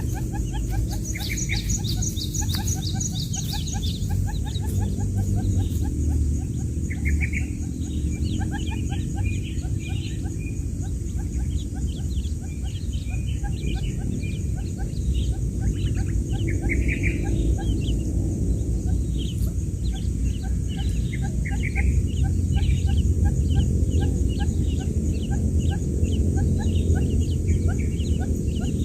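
Newly hatched quail chicks peeping: many short, high, rapid chirps overlapping throughout, over a steady low hum.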